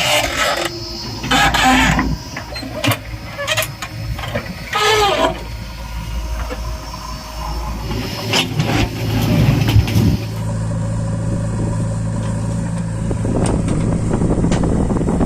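Heavy diesel machinery working, with irregular clanks and short squeals in the first half. About ten seconds in it settles into a steady low engine hum.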